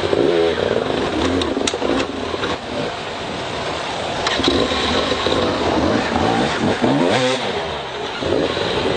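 Motocross motorcycle engines revving, several at once, their pitch repeatedly rising and falling.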